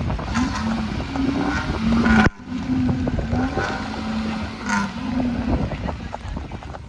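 Off-road 4x4 engine revving in short repeated blips, its pitch stepping up and down, with an abrupt break about two seconds in and fading near the end.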